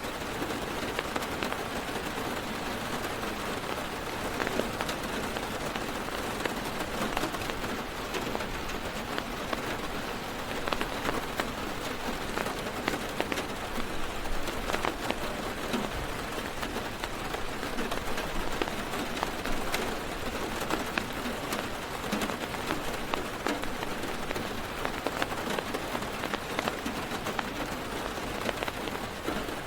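Heavy rain falling steadily on a car's roof and windows, heard from inside the car, with many single drops ticking sharply over the even hiss of the downpour.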